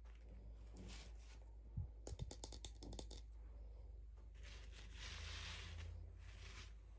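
Faint handling of toy packaging: a quick run of clicks and taps about two seconds in, then a rustling tear of plastic or paper lasting over a second, over a low steady hum.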